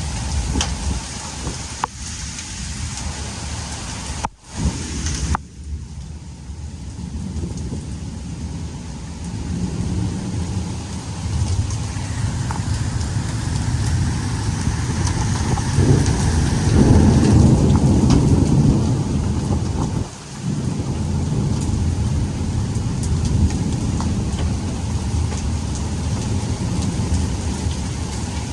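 Heavy rain with pea-sized hail pelting down in scattered sharp ticks, and a low rumble of thunder swelling about sixteen seconds in. The sound briefly drops out twice around four to five seconds in.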